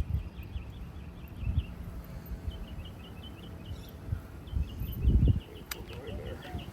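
Runs of rapid, high, short chirps from a small animal, over irregular low rumbling and bumps, with one sharp click near the end.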